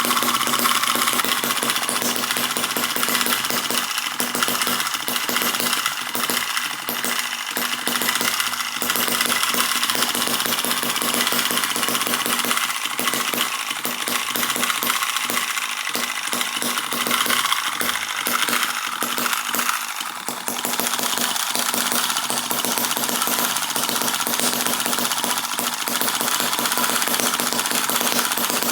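Miniature four-stroke gasoline model engine (Eachine EM2 vertical engine with flyball governor) running fast, a rapid metallic clatter over a steady drone. The sound dips and changes briefly about twenty seconds in.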